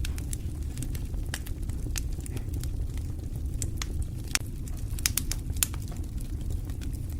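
Wood fire burning in a fireplace: irregular sharp crackles and pops over a steady low rumble of the flames, with a few louder pops a little past the middle.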